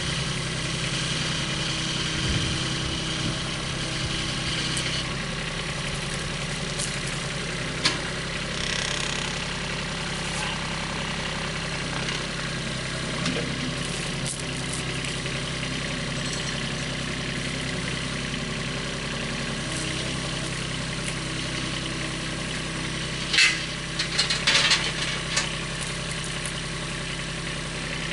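An engine running steadily at low speed, with one sharp knock about eight seconds in and a short cluster of sharp clatters near the end.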